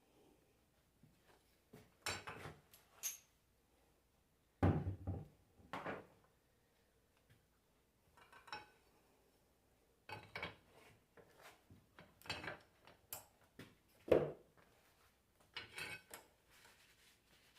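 Metal tools and alternator parts being handled and set down: scattered clinks and knocks, the loudest about four and a half seconds in and again near fourteen seconds.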